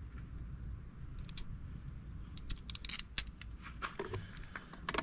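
Light metallic clicks and clinks of small metal parts and hand tools being handled while a fuel-line hold-down clamp is fitted on an outboard motor, in a cluster about two and a half to three seconds in and a few more near the end, over a low steady hum.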